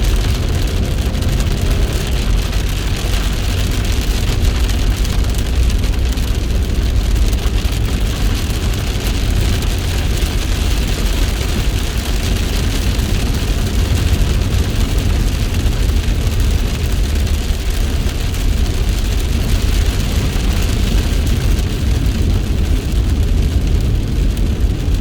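Heavy rain pouring steadily, a constant loud hiss with a strong low rumble underneath.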